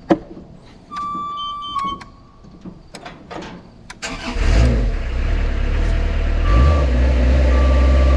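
A lift's engine starts about four seconds in and then runs steadily, with its alarm giving short beeps about a second apart. A held beep sounds about a second in, before the engine starts.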